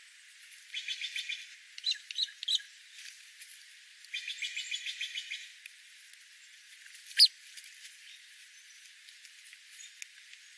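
A wild bird calling: two fast, dry trills with a few short chirps between them, then a single sharp, high note about seven seconds in, the loudest sound here.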